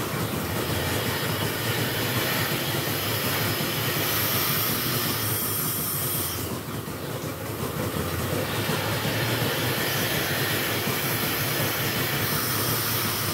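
Dairy milking-shed machinery running steadily, a low hum under a strong hiss that swells and eases twice.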